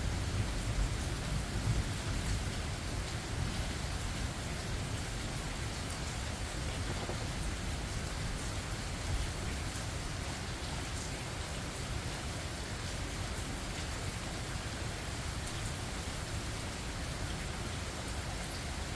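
Steady rain falling in a forest, with the low rumble of thunder dying away in the first couple of seconds.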